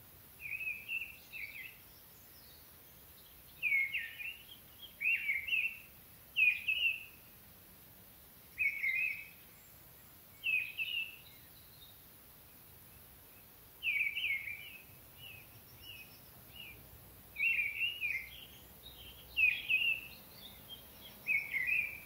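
A songbird singing short, high phrases every second or two, each one sweeping downward, with a pause of about two seconds midway, over a faint steady background noise.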